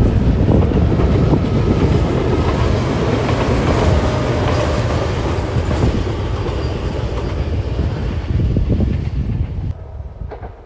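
JR West KuMoYa 443 series two-car electric inspection train running past on the rails, the wheel-and-track noise slowly fading as it moves away, then dropping away sharply near the end.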